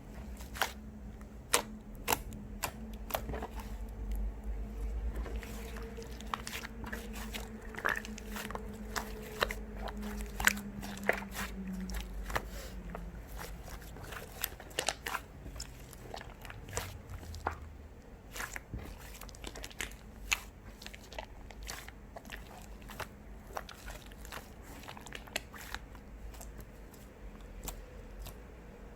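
Fluffy cloud slime being pressed and stretched by hand, giving irregular small crackling pops and clicks over a low steady hum.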